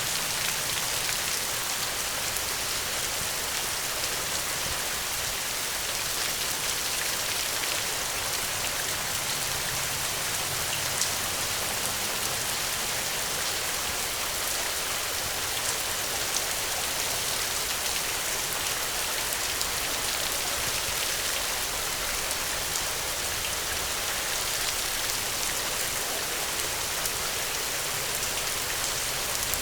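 Steady rainfall, drops pattering on a surface with a dense, even hiss and scattered individual drop ticks.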